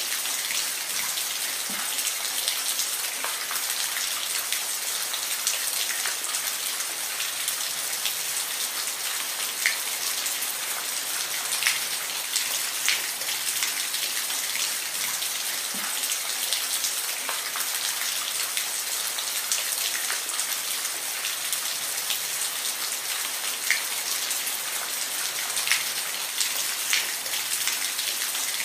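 Steady rain with a dense high hiss and scattered individual drops ticking sharply on a hard surface.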